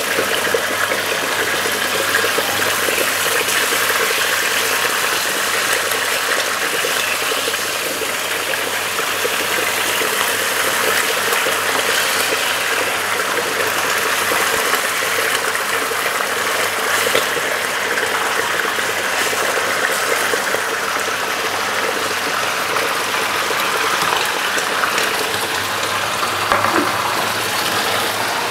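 Calf's liver frying in olive oil in a frying pan: a steady sizzle with small crackles, holding an even level throughout.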